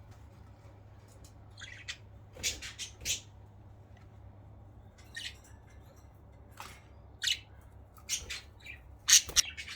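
Budgies in their cages giving short, scattered squawks and chirps, a few quick calls at a time with gaps between.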